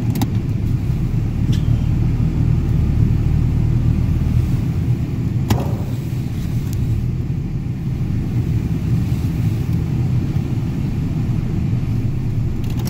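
Steady low rumble of a running car, with a few brief clicks.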